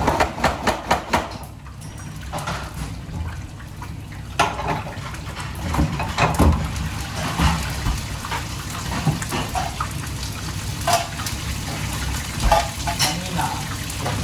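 Kitchen work at the sink: water running with pots, dishes and utensils clinking against each other, opening with a quick run of knocks.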